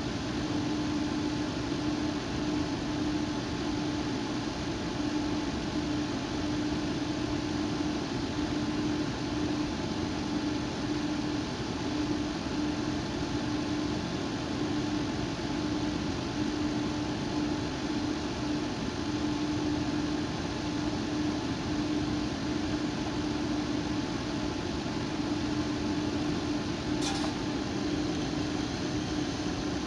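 Computer air-cooling fan running fast: a steady rushing whoosh with a constant hum under it. A single click near the end.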